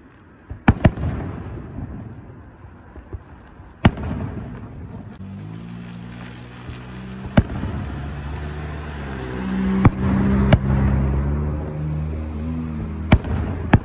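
Aerial fireworks shells bursting, about eight sharp booms a few seconds apart over a low rumble. A steady low hum of several tones runs under the middle and later part.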